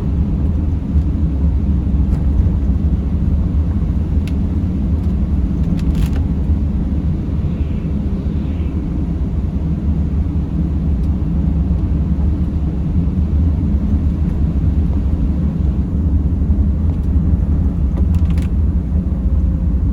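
Steady low rumble of a Mercedes Sprinter van on the move, engine and road noise together, with a few brief clicks.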